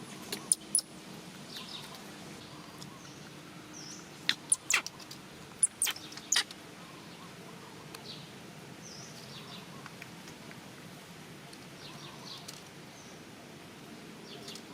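Short, sharp high-pitched animal calls over a steady low background hum. They come in quick clusters about half a second in and again between four and six and a half seconds in, with fainter chirps in between.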